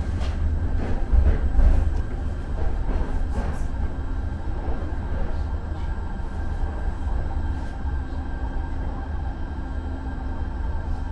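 Muni Metro light-rail car running, heard from inside: a steady low rumble with a few sharp clacks of the wheels in the first few seconds, over a faint steady whine.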